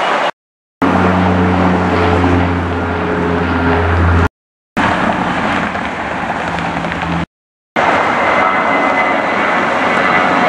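Airliner engines roaring, in short clips joined by three abrupt cuts to silence. One clip carries a strong steady low drone, and the last has a thin high whine over the roar.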